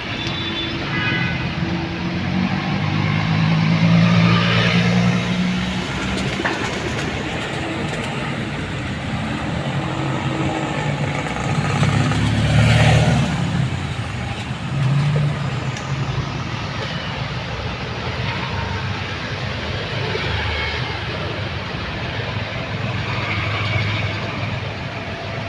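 Motor vehicle traffic: engines running with steady road noise and a louder vehicle passing about twelve seconds in.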